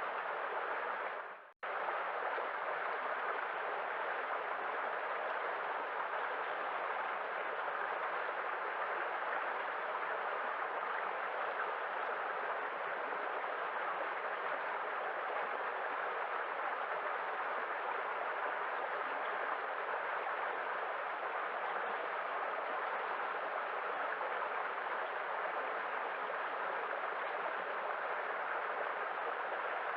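Sea waves heard as a steady, even rushing wash, with a momentary cut to silence about a second and a half in.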